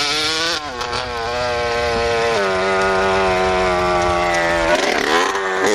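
Motorcycle engine running hard: the revs climb in steps, hold a steady pitch for about two seconds, then waver and drop near the end.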